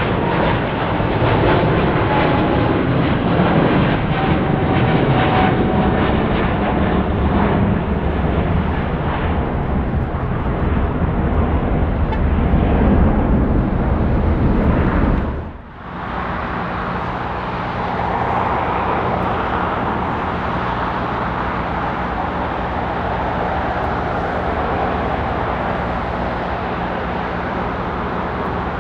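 A Boeing 777 freighter's twin GE90 jet engines running at takeoff power on its departure, with a slowly falling whine over the first several seconds. About fifteen seconds in the sound cuts suddenly to a quieter, steady jet engine hum from an Airbus A321neo taxiing.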